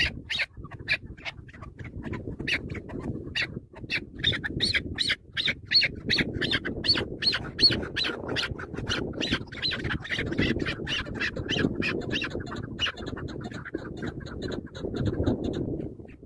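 Chukar partridge calling: a rapid run of harsh, clucking 'chuck' notes, about three to four a second, that thins out and stops about 13 seconds in. A steady low rumble sits underneath.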